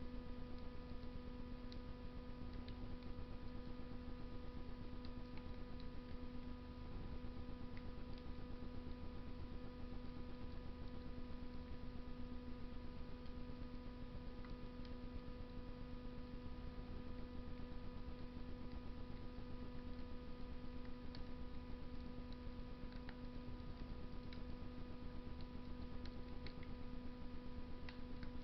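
Wood fire burning in a Russian stove, with scattered faint crackles and pops, over a steady electrical hum.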